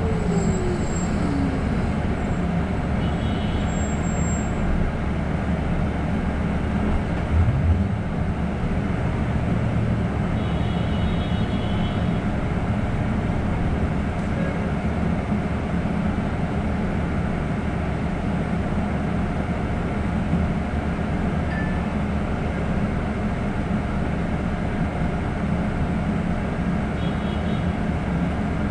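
Steady rumble of a city bus driving, heard from inside the cabin, with a short bump about seven and a half seconds in and a few faint high chirps.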